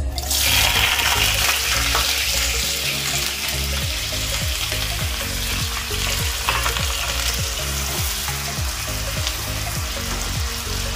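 Diced raw potatoes dropped into hot oil in a kadhai, sizzling hard at once, then frying steadily while a spatula stirs them.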